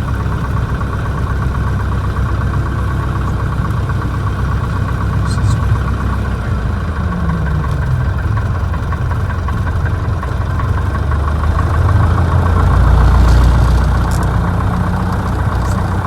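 Piper PA-28's four-cylinder Lycoming piston engine running steadily at low power, with a brief change in pitch about halfway through and a swell in loudness near the end.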